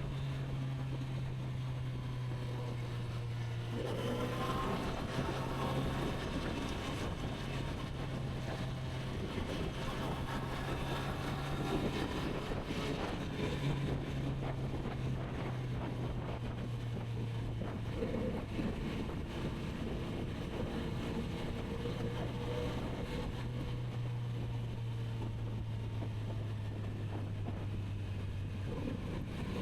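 Kawasaki Z900RS inline-four engine running at a steady cruising pitch, with wind noise on the microphone. Near the end the engine note rises as the bike accelerates.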